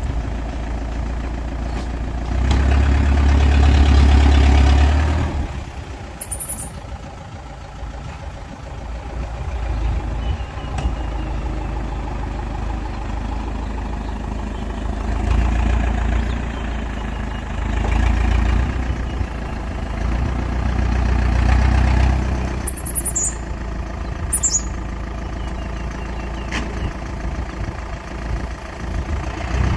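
Heavy diesel earthmoving machinery working, the engine swelling under load and easing off several times, loudest a few seconds in. A few brief high-pitched squeaks cut through the engine noise.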